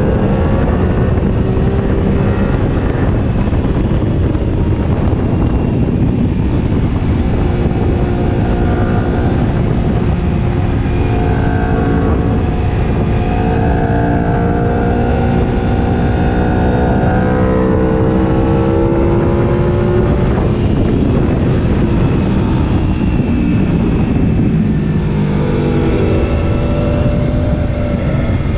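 Sport motorcycle engine rising and falling in pitch as it accelerates and shifts, over a heavy rumble of wind on the microphone.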